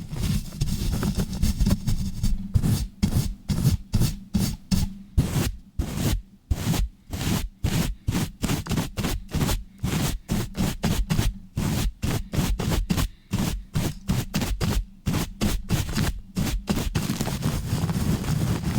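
Rough rubbing and scratching directly on a microphone: a continuous low rumbling rub, then from about two and a half seconds in fast rhythmic strokes, several a second with short gaps between them, that give way to continuous rubbing again near the end.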